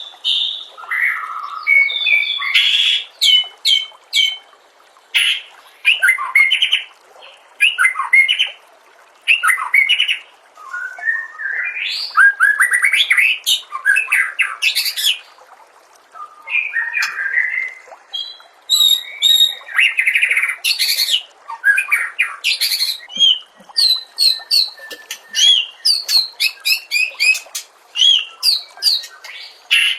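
White-rumped shama (murai batu) singing a varied song full of 'isian', phrases mimicked from other birds: quick whistled sweeps, rapid trills and harsh chattering notes in bursts with short pauses between them.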